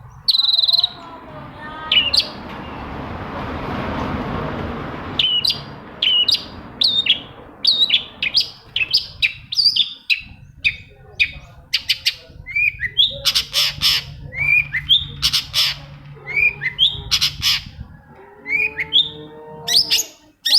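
Long-tailed shrike (cendet) singing: a rapid string of short, sharp chirps and squawks that bend in pitch. Near the start there are about three seconds of hiss, which stop suddenly.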